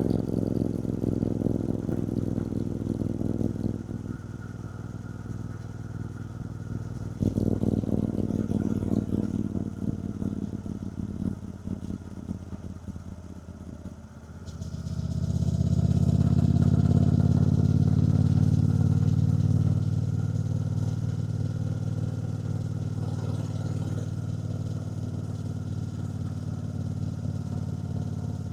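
Triumph Bonneville T120's 1200 cc parallel-twin engine under way, rising and falling with the throttle in the first half, then opening up sharply about halfway through, loudest for a few seconds before settling to a steady cruise.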